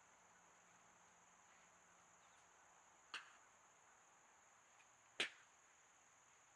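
Two sharp clicks about two seconds apart, the second louder, over a faint steady high-pitched hum.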